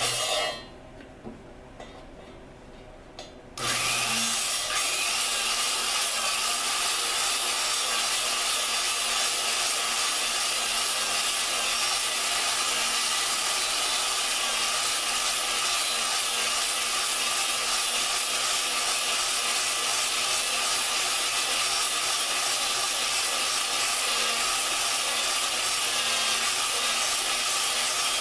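A drill spinning an engine valve against its seat with lapping compound. After a short scrape and a pause, a steady grinding starts about three and a half seconds in and holds evenly.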